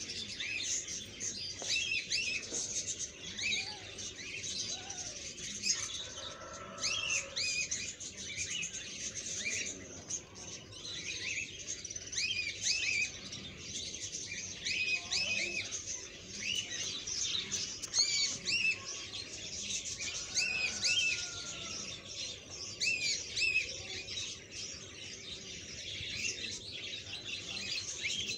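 Small birds chirping: many short, high chirps in quick succession that overlap and keep going throughout.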